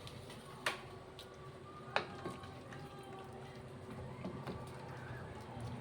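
A few sharp clinks or knocks, two of them louder about a second and a half apart, over a faint steady background.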